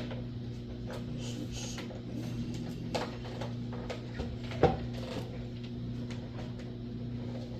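Light clicks and rattles of an RC truck's plastic parts being handled, with one sharper knock a little past halfway, over a steady low hum.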